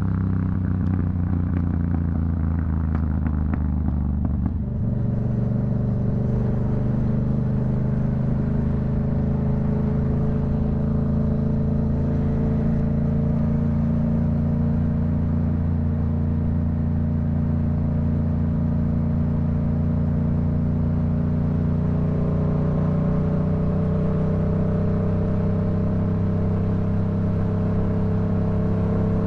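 Yamaha MT-07's CP2 parallel-twin engine through an aftermarket Black Widow exhaust, heard from the rider's position while riding. A few faint crackles and a change in engine note come in the first five seconds, then it runs at a steady engine speed, rising slightly a little over twenty seconds in.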